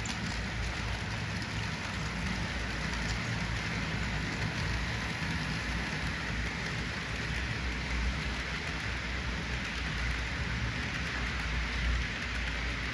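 Diesel locomotives of a seven-unit lashup running: a steady low engine rumble under a continuous even hiss.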